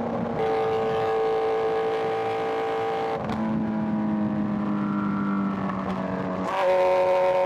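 Inline-four sport bike engine running at highway speed, holding a steady pitch. The pitch drops sharply about three seconds in and sags slowly, then jumps up and gets louder near the end.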